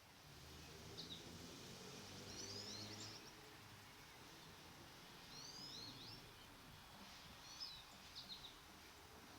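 Faint songbird calls: several short clusters of quick high chirps and downslurred notes. A faint low hum sits underneath, strongest in the first few seconds.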